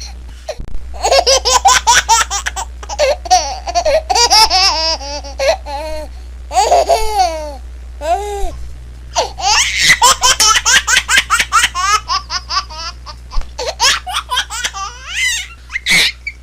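A baby laughing hard in long runs of quick, high-pitched giggles, with short pauses for breath between the runs.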